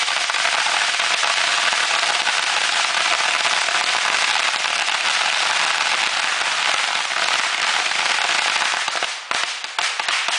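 A bag of fireworks, bottle rockets among them, going off together in a fire: a dense, continuous crackle of rapid bangs that thins out about nine seconds in to a few separate pops.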